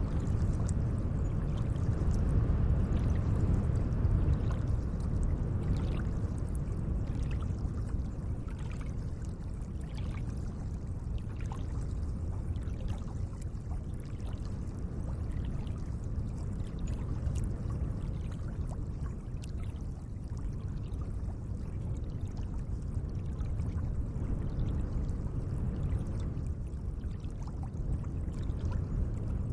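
Gentle lake water: a steady low wash with small scattered splashes and drips.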